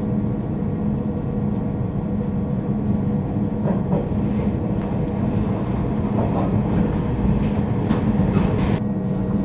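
Regional passenger train running on the line, heard from inside the carriage: a steady hum and rumble, with a few sharp wheel-on-rail clicks around the middle and near the end.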